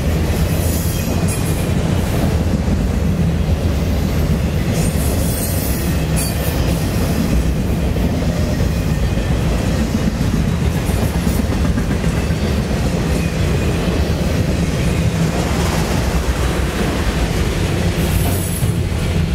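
Freight train of autorack cars rolling past, steel wheels running steadily over the rails.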